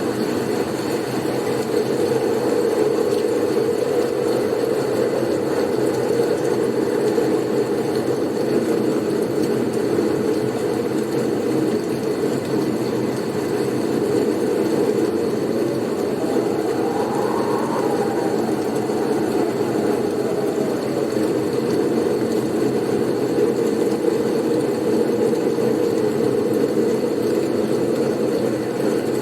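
Blizzard wind blowing as a steady low rushing noise, with one gust that rises and falls in pitch a little past halfway through.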